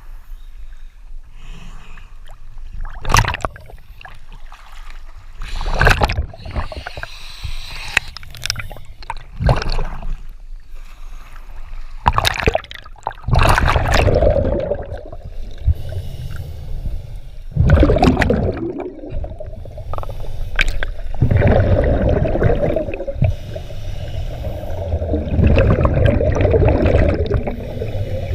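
Water splashing and gurgling against the camera, with irregular loud splashes every few seconds, turning into a steadier rushing water noise about halfway through.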